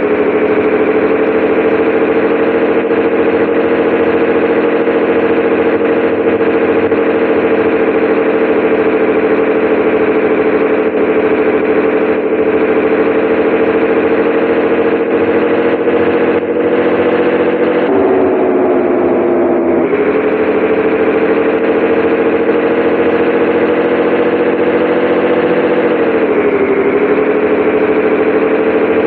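Scania 113H 360 truck's 11-litre straight-six diesel engine running under way, heard from inside the cab as a steady drone. Its pitch drops briefly and recovers about two-thirds of the way through, and again near the end.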